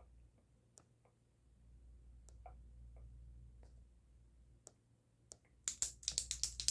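Sharp, close-miked ASMR ticks and clicks: a few single ticks a second or so apart, then a quick, louder run of clicks in the last second.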